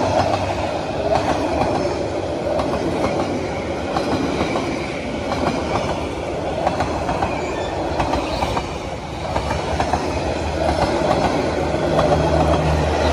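Train running on the rails, wheels clattering with a steady rumble and many sharp clicks.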